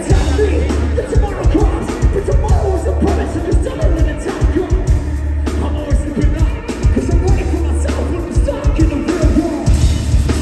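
Live metal band playing loud through a festival PA, with vocals over guitars and drums, and a heavy low bass that surges about every two seconds.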